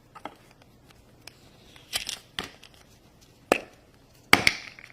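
Small plastic toy packaging being handled and torn open: a few sharp crinkles and clicks, separated by quiet, the loudest near the end.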